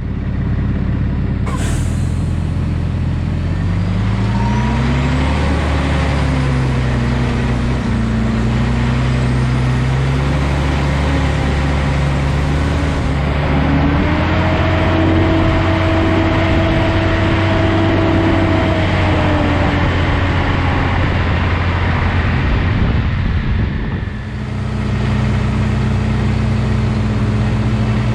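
Valtra T234 Direct tractor's six-cylinder diesel engine running, revving up about four seconds in and again around fourteen seconds, then easing off and settling to a steady lower speed near the end. A brief air hiss sounds about two seconds in.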